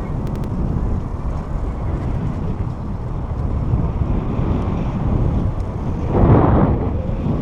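Wind buffeting the microphone of a camera riding on a moving bicycle, a steady low rumble, with a louder rush of noise about six seconds in.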